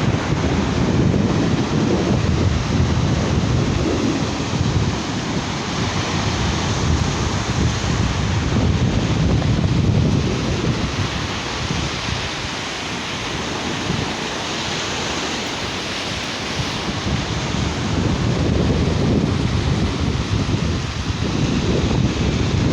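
Sea surf washing onto a beach, with wind rumbling on the microphone; the noise swells and eases every several seconds.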